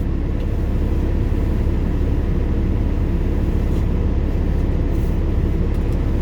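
Steady low rumble of an idling semi-truck's diesel engine.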